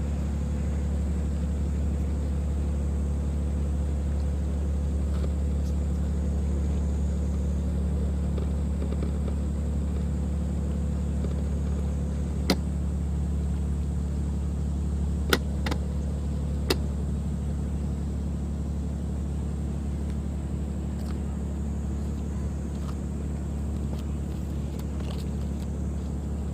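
Boat diesel engine idling with a steady low hum. Three sharp knocks come about halfway through.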